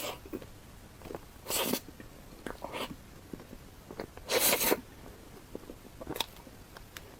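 Close-up eating sounds: small bites and chewing, with two louder, noisier bites or slurps about a second and a half in and about four and a half seconds in.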